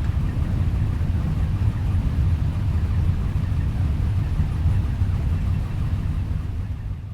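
Motor vehicle engine running with a steady low rumble, easing off in level near the end.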